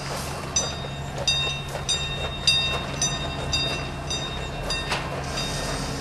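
Miniature live-steam railway train running, with a regular metallic ringing strike about every half second over a steady low hum.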